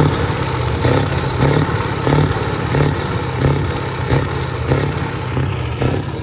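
Scania V8 diesel truck engine running, its sound swelling in an even pulse a little under twice a second.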